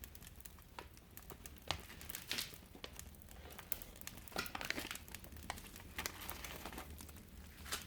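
Firewood burning in a traditional Korean agungi firebox, crackling with irregular snaps and pops and a couple of brief hissing spells.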